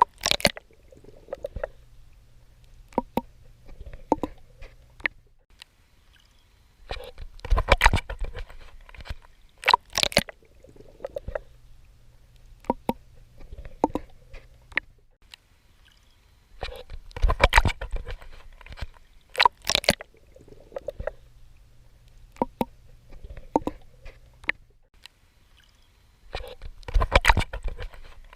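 Swimming strokes splashing and sloshing in the water. They come in clusters of several strokes about every ten seconds, with quieter stretches and a faint low steady hum in between.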